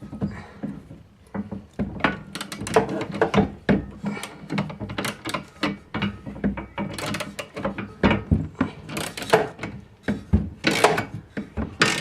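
A wrench working a loose bolt on a mower's bagger mount, tightening it: irregular metal clicks, scrapes and rattles.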